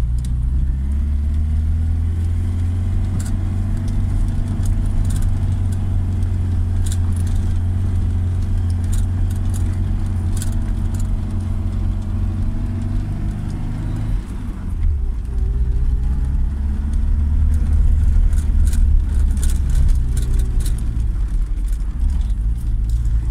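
Engine of a 1984 Doğan car running under load as it climbs a steep, winding road, heard from inside the cabin. The engine note dips briefly about fourteen seconds in, then runs louder. Small rattling ticks come and go throughout.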